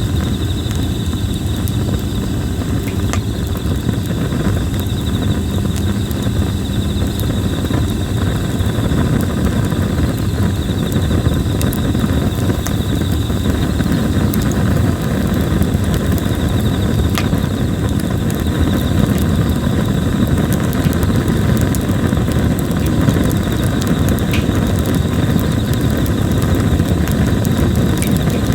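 Red plum wood burning in a campfire, crackling with scattered sharp pops over a steady low rush. Insects chirp steadily in the background.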